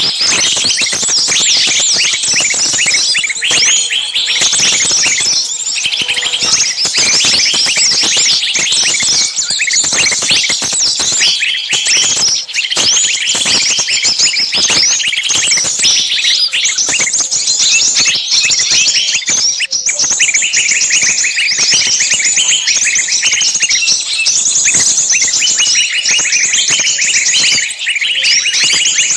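A dense chorus of many small birds chirping at once, a continuous overlapping mass of quick high chirps.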